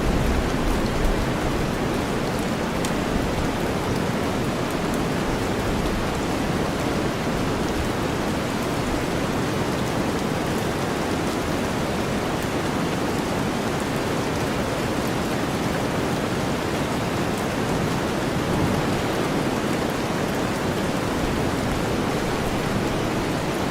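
Steady rainfall mixed with deep, low-weighted white noise, an even hiss with faint scattered raindrop ticks.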